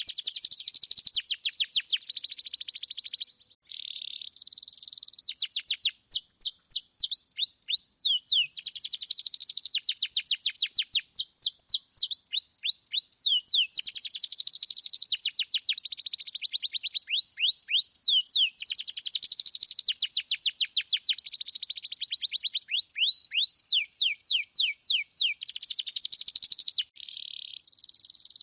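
Domestic canary singing continuous rolling trills of fast, repeated down-sweeping whistled notes, changing from one trill type to another, with brief breaks about three and a half seconds in and near the end.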